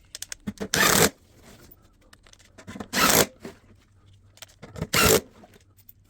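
Sped-up work noise: short scraping or rubbing strokes about every two seconds, with small clicks and knocks in between.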